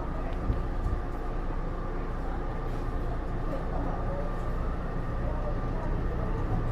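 Interior running sound of a Taipei Metro Series C301 electric multiple unit with Bombardier IGBT-VVVF traction: a steady low rumble of wheels on track, with a steady high-pitched tone over it.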